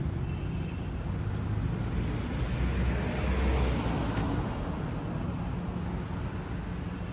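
A motor vehicle passing on the street: engine rumble and tyre hiss swell to a peak about halfway through, then fade.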